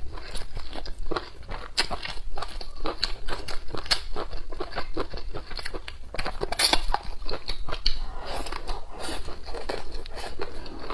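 Close-miked chewing and biting of stir-fried dried green beans with cured pork: a dense, irregular run of wet, crackly mouth clicks.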